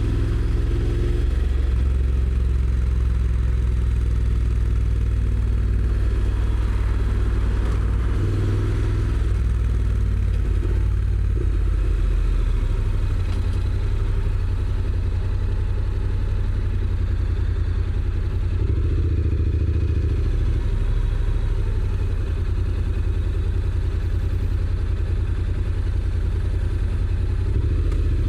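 Honda NC750X's parallel-twin engine through its stock exhaust, running under way as the dual-clutch bike is ridden, its note rising and falling a few times with road speed.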